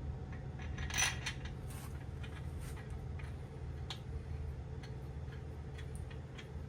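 Light, irregular metallic clicks and taps from hand tools working on the engine's main bearing caps, with one louder clack about a second in, over a steady low hum.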